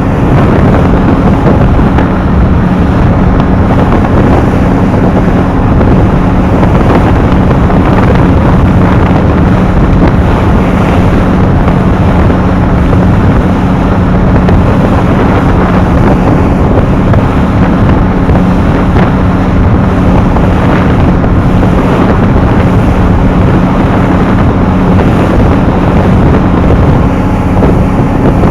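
A small ferry boat's engine running steadily under way, a constant low drone, with wind buffeting the microphone.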